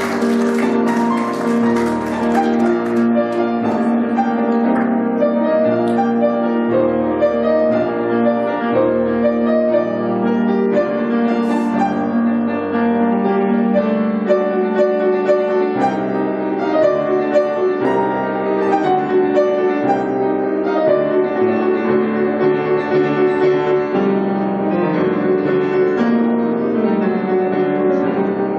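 Piano playing a classical piece: a continuous flow of notes with no pause.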